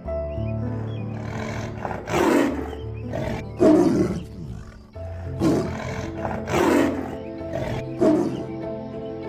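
An animal roaring about five times in loud, rough bursts over steady background music.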